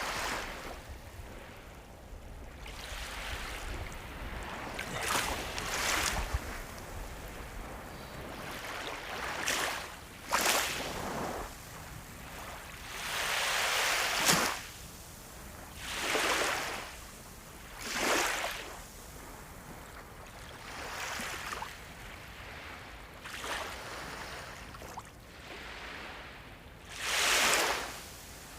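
Small sea waves washing in one after another: about a dozen swells of surf noise, each rising and falling within a second or so, some louder than others.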